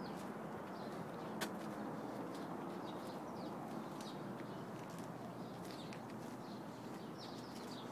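Faint, scattered bird chirps over a steady low background hum, with a single sharp click about a second and a half in.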